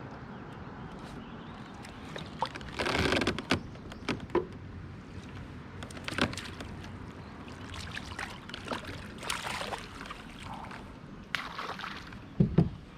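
Water splashing and sloshing around a fishing kayak, with scattered knocks and clunks against the hull and a couple of heavier thumps near the end.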